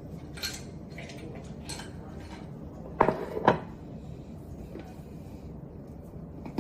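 Kitchen utensils clinking and knocking against dishes in a few separate strikes, the loudest a close pair about three seconds in.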